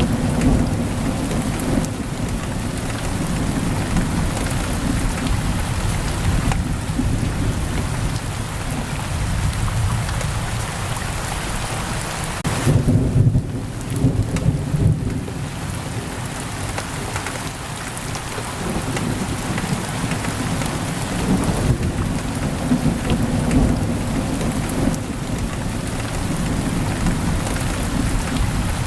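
Heavy rain pouring steadily against a window, with low rolling thunder underneath; the thunder swells loudest about halfway through.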